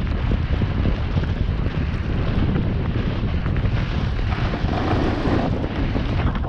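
Wind buffeting the camera microphone while snowboarding downhill: a steady rushing and rumbling, a little brighter for about a second after the four-second mark.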